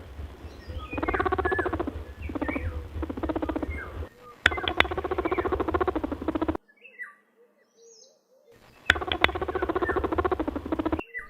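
Rabbit vocalising: a series of buzzy, rapidly pulsing squeaks and honks in several spliced clips, with a short quieter stretch in the middle holding faint chirps.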